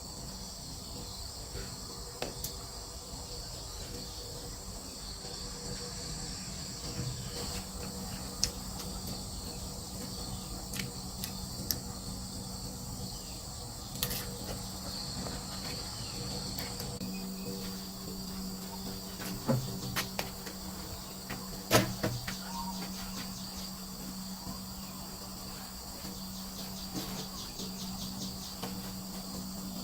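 Steady high-pitched buzz of a forest insect chorus, with a few scattered knocks and clicks, and a low steady hum that comes in about halfway through.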